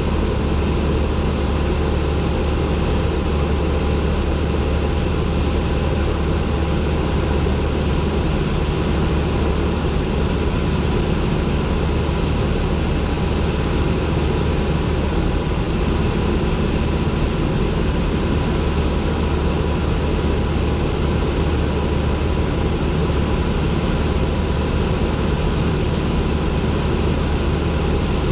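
Cessna 172N's four-cylinder Lycoming engine and propeller droning steadily, heard from inside the cockpit.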